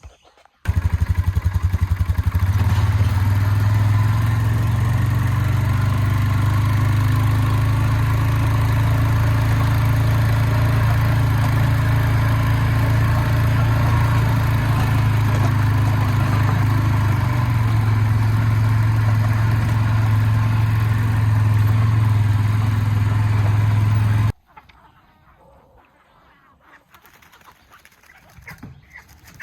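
A motor or engine running at a steady, even pitch, loud and unvarying; it starts suddenly and cuts off abruptly about four-fifths of the way through.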